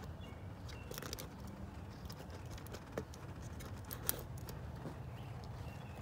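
Scattered light clicks and taps of handling over a steady low rumble, with one sharper click about four seconds in.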